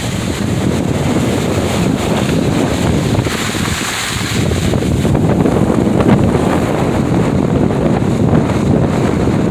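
Steady, loud wind noise buffeting the microphone, a dense low rumble with a brief rise in hiss about three to four seconds in.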